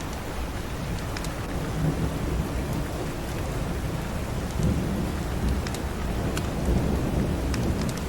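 Steady rain with a low rumble of thunder that swells twice, and a few sharp crackles of a wood fire in a fireplace scattered through it.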